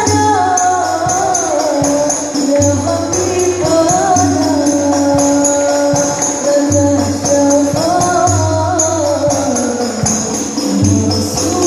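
Islamic sholawat music played by a hadrah ensemble: a gliding melody over jingling tambourines and a low beat that comes in and drops out in blocks.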